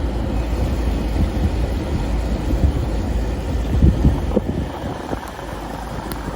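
Steady low rumble of a car on the road, engine and tyre noise mixed with wind.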